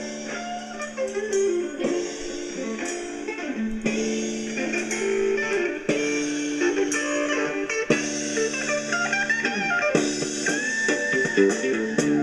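Playback of a recorded blues-rock track: electric guitar chords changing about every two seconds over bass and drums, with a long high lead note held near the end.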